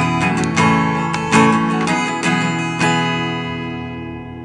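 Acoustic guitar strummed in a steady pattern, about five chord strokes, then the last chord is left to ring and fade out.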